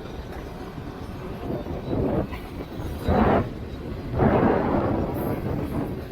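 Strong wind buffeting the microphone over a steady low rumble, with three louder gusts about two, three and four seconds in.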